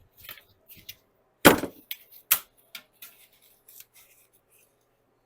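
Intermittent taps, scrapes and knocks of a sheet of sound deadener being cut and handled on a workbench. The loudest knock comes about one and a half seconds in, with a sharper one just over two seconds in, then only small ticks.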